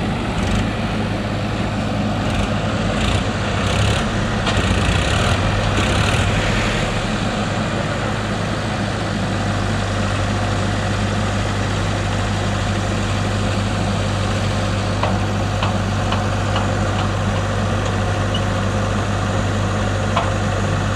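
Power Trac 434 tractor engine running steadily, louder and rougher for a few seconds near the start, then settling back to an even run.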